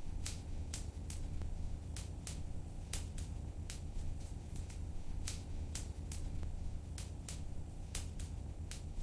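Wood fire crackling in a fireplace, with sharp irregular pops two or three times a second over a steady low rumble.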